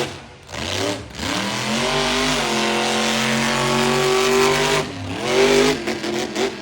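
Monster truck's supercharged V8 engine revving hard through a run: the pitch climbs and holds at high revs for a few seconds, dips briefly, surges again near the end and then falls away.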